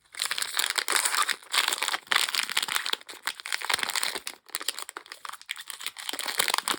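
Blind-bag packaging crinkling as it is torn open and handled by hand: a dense crackle for about three seconds, then thinner, scattered crinkles.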